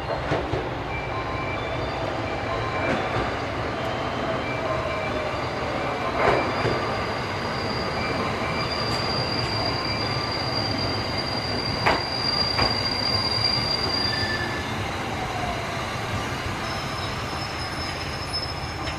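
Railway cars at a station: a steady rumble with thin, high steel-wheel squeals that come and go, and sharp metallic clanks about six and twelve seconds in.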